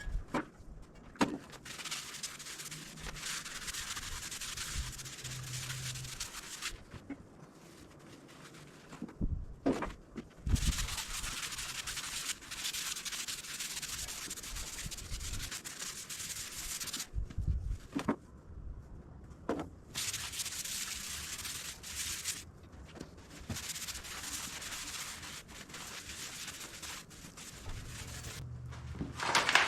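Hand sanding on a metal part, scratchy strokes running in stretches of several seconds with short pauses and a few knocks, scuffing the surface so paint has something to stick to.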